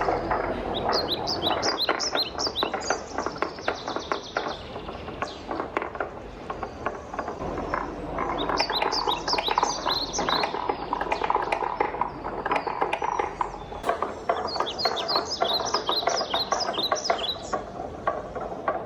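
Wooden balls rolling and clacking down a wooden marble run. A steady rolling rumble is packed with rapid clicks, and clusters of short, high ringing ticks come in bursts.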